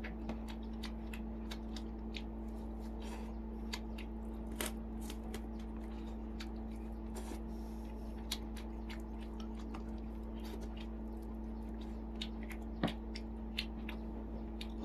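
Close-up mouth sounds of eating steamed chicken: chewing with many small wet clicks and smacks at irregular moments, over a steady low electrical hum.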